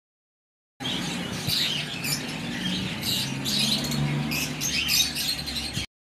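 Caged birds chirping, many short high calls overlapping, over a steady low hum; it starts about a second in.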